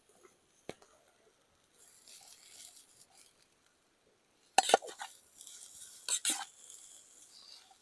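Onions frying in a pan with a faint high sizzle, while a metal utensil clatters and scrapes against the pan in two short bursts about halfway through and again a second and a half later.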